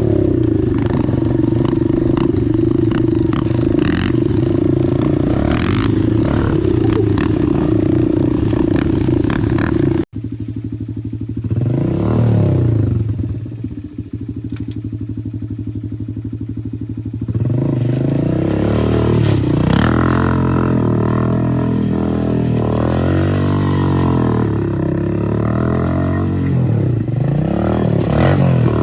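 Dirt bike engine running steadily with scattered clattering for the first ten seconds. Then, after an abrupt cut, it idles more quietly with one brief rev. From about two-thirds of the way in it revs up and down over and over as the bike is ridden.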